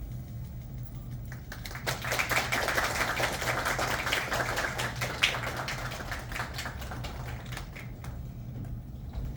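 Audience applause: dense clapping that swells about two seconds in and dies away near the end.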